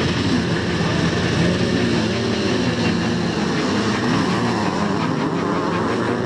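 Vintage motocross motorcycles racing: several engines revving, their pitch rising and falling as the bikes accelerate and shift.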